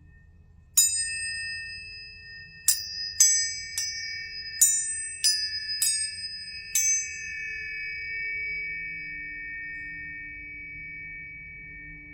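Planetary tuning forks struck about eight times in quick succession, each with a sharp click. Their clear, steady high tones ring on and slowly fade after the last strike.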